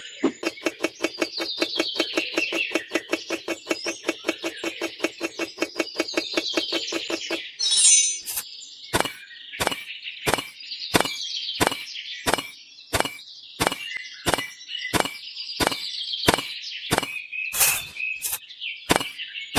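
Birds chirping over a fast, even run of tapping. After about seven seconds the tapping changes to sharp taps roughly twice a second.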